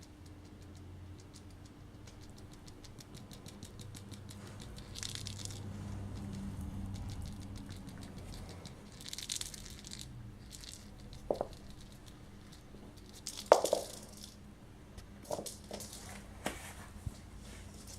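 Kittens moving about with scattered rustling and crunching, and a few short, sharp kitten mews in the second half, the loudest about two-thirds of the way through. A low steady hum runs underneath.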